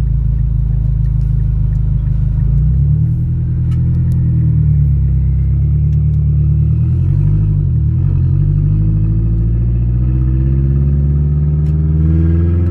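Mazdaspeed6's turbocharged 2.3-litre four-cylinder running loud through an open downpipe, heard from inside the car while driving. The engine note climbs in pitch as it accelerates, drops back briefly about halfway through, then climbs again near the end.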